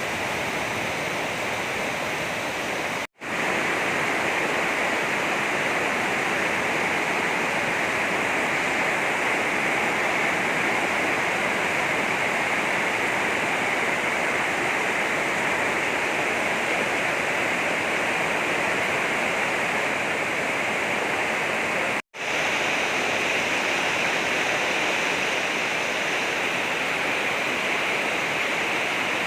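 Heavy rain falling in a steady, dense hiss. It cuts out to silence for an instant twice, about three seconds in and again near the end.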